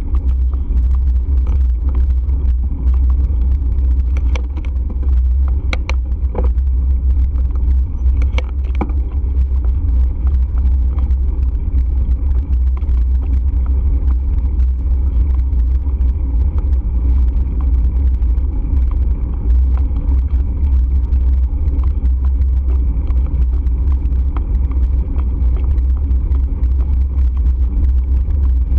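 Steady low rumble of wind and road noise on the microphone while riding, with a few sharp clicks and rattles between about four and nine seconds in.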